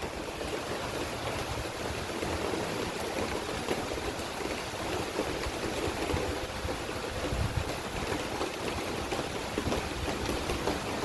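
Rain from a brief cloudburst falling steadily, an even hiss of drops, with a low uneven rumble underneath.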